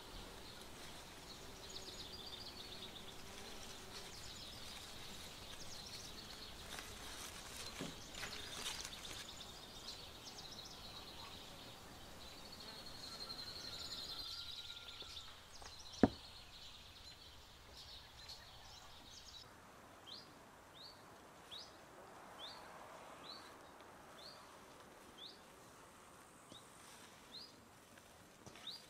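Birds singing in the background, with one sharp click about halfway through. From about two-thirds in, a bird repeats a short, rising high chirp about one and a half times a second.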